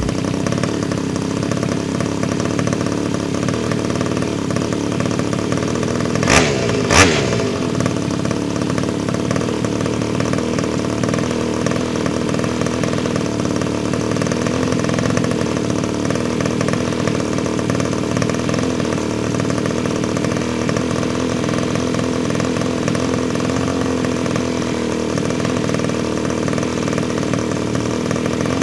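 Small internal combustion engine running steadily at an even speed, with two sharp bangs about six and seven seconds in.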